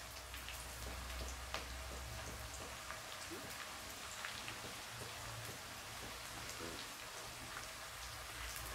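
Chopped onion, garlic and ginger frying in oil in an aluminium kadai, stirred with a silicone spatula: a soft, steady sizzle full of small crackles, with a low hum underneath.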